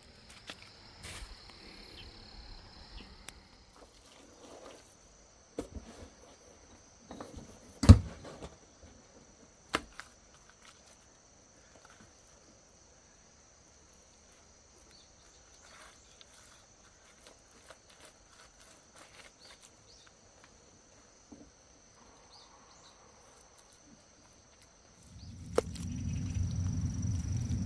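Scattered knocks and clicks, with one loud thump about eight seconds in, over a faint steady high-pitched tone; a low rumble starts near the end.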